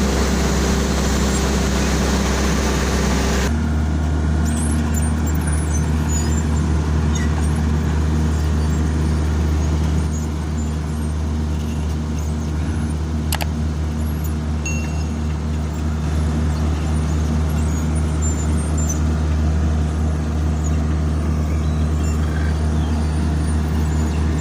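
Heavy diesel engines running steadily, a low drone. The sound changes abruptly about three and a half seconds in.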